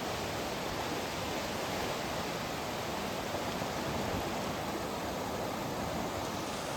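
Creek in full flood, running at about 5,100 cubic feet per second: a steady, unbroken rush of fast, turbulent water.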